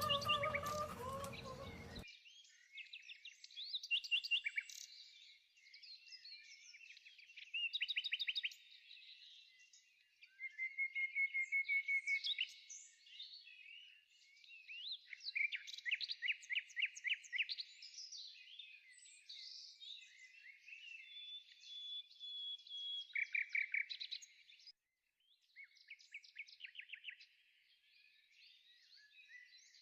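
Small birds singing: a continual mix of quick trills and chirps. A brief louder sound precedes them in the first two seconds and then stops suddenly.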